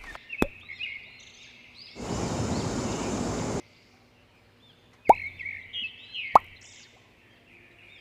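Three short, sharp plops, each rising quickly in pitch, with a loud, even hiss lasting about a second and a half near the middle, over light bird chirping.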